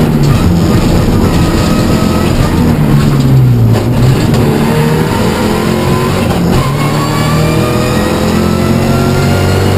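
Peugeot 207 R3T rally car's turbocharged 1.6-litre four-cylinder engine at race pace, heard from inside the cabin. The revs drop sharply about three to four seconds in, then climb steadily again under hard acceleration.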